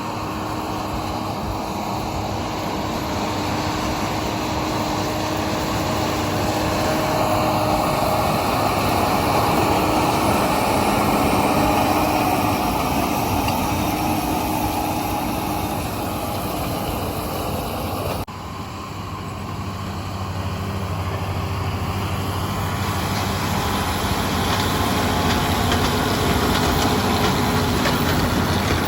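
Tractor engine running steadily while pulling hay equipment through a field. The sound breaks off abruptly about 18 seconds in and a similar engine sound carries on.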